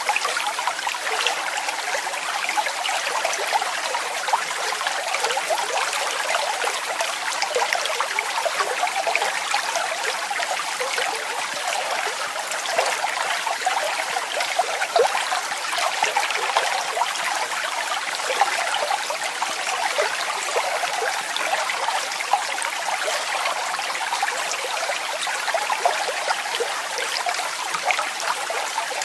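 Small waterfall: water falling and splashing steadily, bright and babbling, with no deep rumble.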